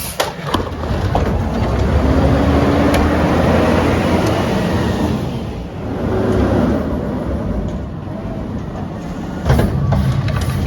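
Mack LR McNeilus Meridian garbage truck working, a dense steady noise that swells from about two seconds in and eases near five seconds. Sharp knocks sound near the start and again about nine and a half seconds in.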